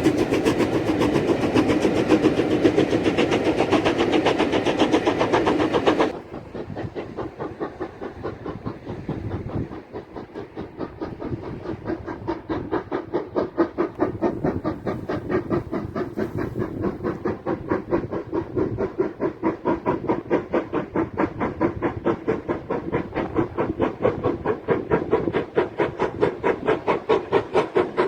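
Steam locomotive chuffing, an LMS Black Five 4-6-0 working under steam, with rapid, even exhaust beats. Loud at first, it drops suddenly about six seconds in, then slowly grows louder again.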